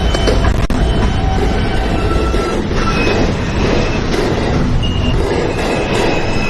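New York City subway J train heard from inside the car, a steady loud rail rumble with brief high-pitched wheel squeals as the train pulls into a station.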